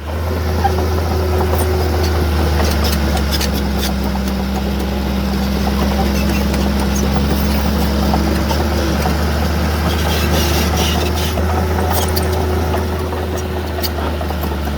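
Diesel engine of heavy earthmoving machinery running steadily with a deep drone, with scattered light metallic clicks and rattles over it.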